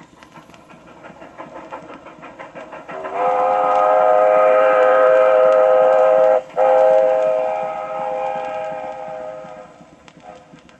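Railroad train running with a fast, regular clatter, then sounding a long, loud whistle chord of several notes about three seconds in. The whistle breaks off briefly, sounds again, and fades away near the end.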